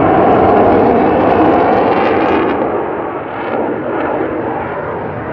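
Aircraft engine noise from a plane flying past, loud at first and easing off after about two and a half seconds.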